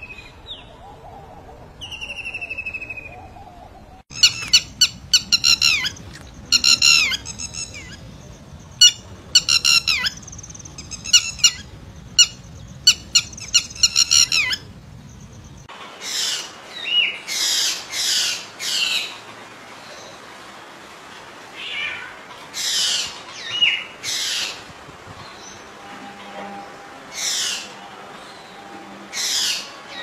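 Bird calls in two parts: first a white-throated kingfisher's harsh, rattling calls in quick clusters, then, after a sudden change about halfway through, a drongo's short high notes in groups of three or four.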